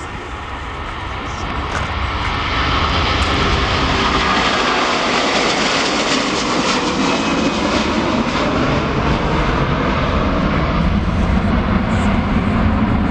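Jet airliner's engines, swelling over the first two or three seconds and then holding loud and steady.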